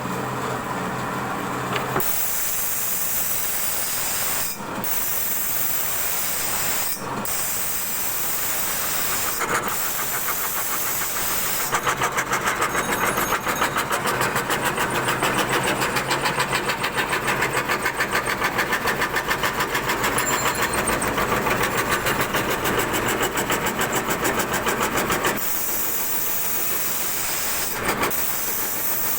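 CNC wood carving router cutting wood: the spindle runs with a steady hiss of cutting. For a stretch in the middle the sound grows louder and pulses rapidly and evenly.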